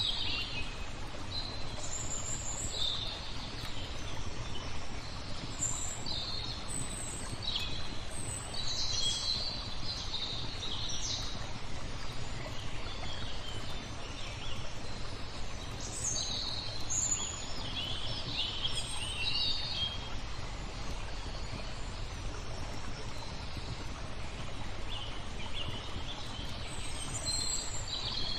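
Small birds chirping and trilling in short, high phrases, on and off, over a steady wash of flowing water. The birds fall silent for a few seconds near the middle and again past two thirds of the way.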